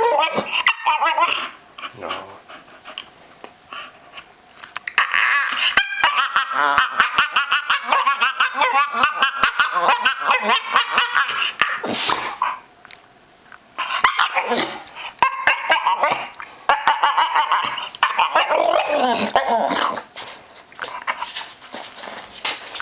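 Staffordshire bull terrier making weird vocal noises: long bouts of pitched, pulsing whining and grumbling with short yips, broken by a few brief pauses.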